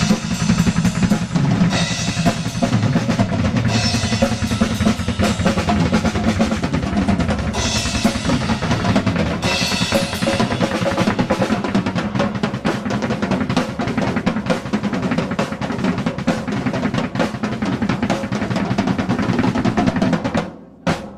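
A drum kit played solo, a steady rock beat on kick and snare with cymbal crashes and fills, for a sound check. The playing stops abruptly about a second before the end.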